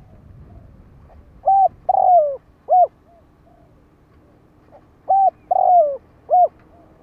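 Decoy spotted dove cooing: two three-note phrases a few seconds apart, each a short coo, a longer coo that falls in pitch, then another short coo, with softer notes in between. It is the call used to lure wild spotted doves.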